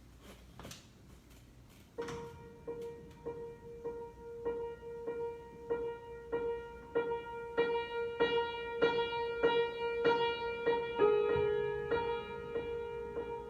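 Solo piano improvisation starting: after a few faint clicks, one note is struck over and over about every half second, with notes above it joining in and the bass note shifting lower near the end.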